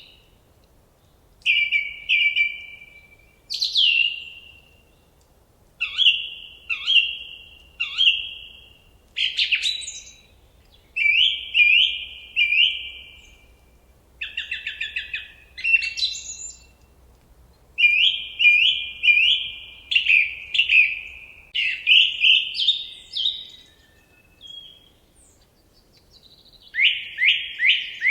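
Songbird song: short phrases of quick repeated chirping notes, each phrase lasting a second or two, with brief pauses between them.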